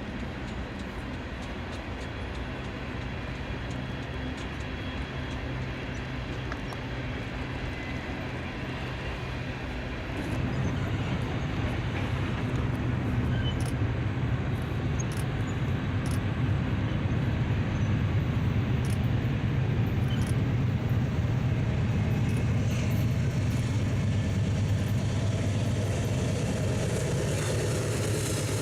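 BNSF freight train's GE diesel-electric locomotives running with a steady low engine drone. It grows suddenly louder about ten seconds in as the locomotives come close, with scattered clicks over it.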